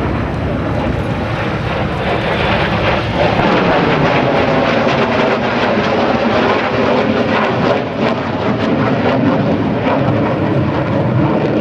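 North American F-100F Super Sabre's J57 turbojet engine making a low pass, loud jet noise that builds over the first few seconds and then holds, shot through with crackling.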